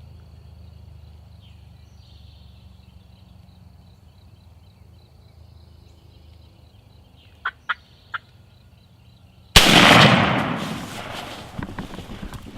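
A wild turkey gobbler gobbles loudly and close by, breaking in suddenly about three-quarters of the way through. A few short sharp ticks come just before it.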